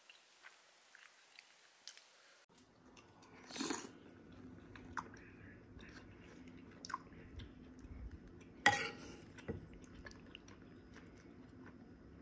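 Someone eating a cupcake: faint chewing and small mouth clicks, with two short louder noises about four seconds in and again near nine seconds, over a low steady hum that starts about two and a half seconds in.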